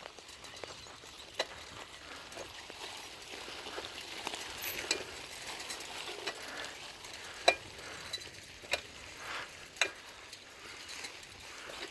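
A bicycle rolling over a rough trail: a steady crackling tyre and rattle noise, with a few sharp clicks and knocks from the bike going over bumps.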